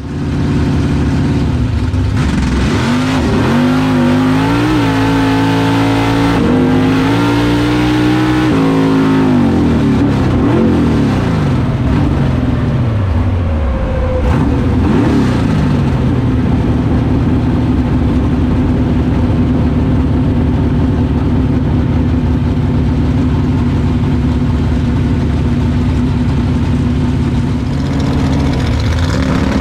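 Drag race car engine running hard on a pass, its pitch climbing and falling several times over the first half, then holding steady at a constant pitch.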